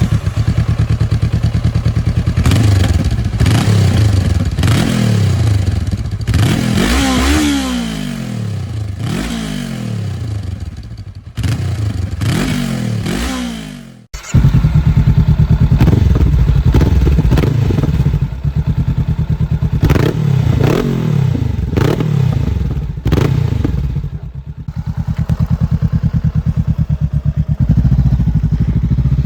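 Honda CBR500R parallel-twin engine idling and being blipped repeatedly, each rev rising and then falling back to idle. About halfway through there is a hard cut to a louder, deeper recording of the same bike, which by the video's stock-versus-Scorpion order is the Scorpion aftermarket exhaust replacing the stock one.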